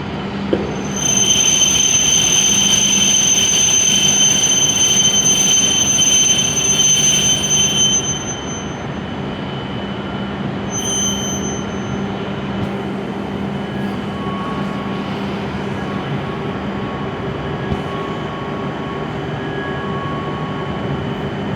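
An E7/W7-series Hokuriku Shinkansen train rolling slowly into the platform and braking to a stop, with a loud high-pitched wheel and brake squeal from about a second in until about eight seconds, a brief squeal again near eleven seconds, and a steady low running hum under it all.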